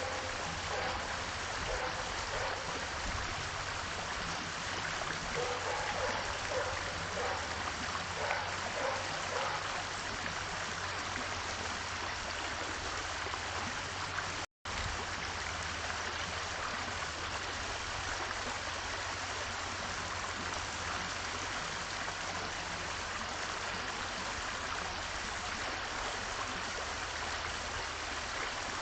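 Steady rushing noise, broken by a very brief drop to silence about halfway through.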